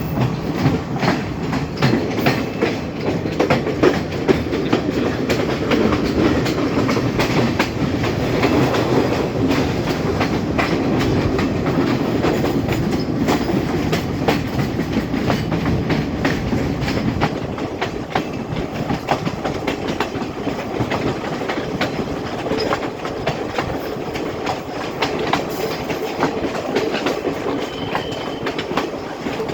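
Class S14 diesel multiple unit train running along the track: a steady rumble, with the wheels clicking over rail joints throughout.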